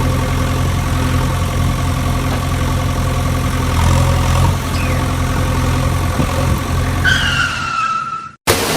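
Engine running steadily at a low, even beat, with a falling whine near the end before the sound cuts off suddenly.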